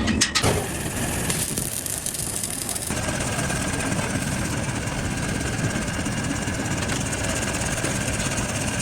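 Workshop machinery running steadily, with a few sharp knocks in the first half-second.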